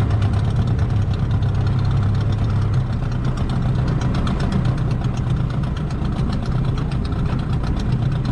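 Small boat's outboard motor running steadily at low speed; its hum eases slightly about three seconds in.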